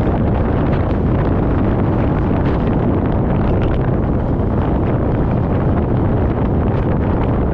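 Wind buffeting an action camera's microphone on a moving motorcycle, a loud, steady rush heaviest in the low end that drowns out any engine note.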